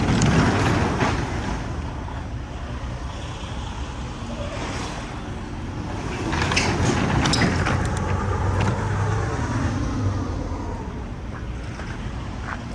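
2002 Chevrolet Express van's engine running, growing louder near the start and again about six seconds in.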